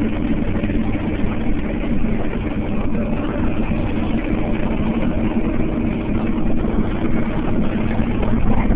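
Fire engine's diesel engine running steadily, a constant low drone with a steady hum.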